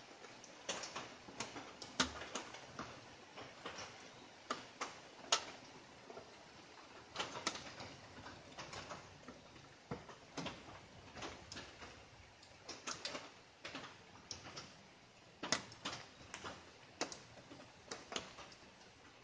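Light rain: irregular drops pattering and tapping close by, several a second, over a faint steady hiss.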